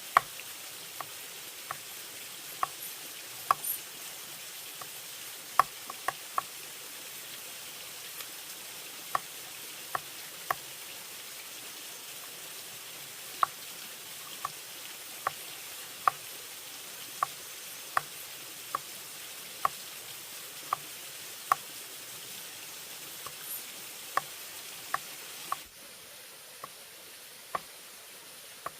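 Irregular sharp taps, about one every second, from bamboo being worked by hand, over a steady high hiss of forest ambience. The hiss drops suddenly near the end.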